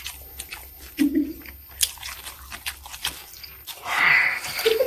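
Wet, close-miked chewing of a mouthful of gimbap, with quick lip-smacking clicks throughout. Near the end comes a loud breathy exhale, let out after holding the breath while eating.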